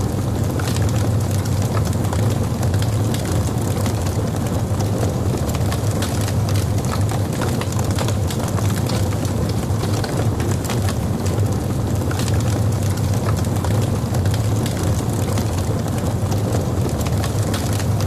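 Logs burning in a fireplace: a steady low rumble of flames with frequent small crackles and pops.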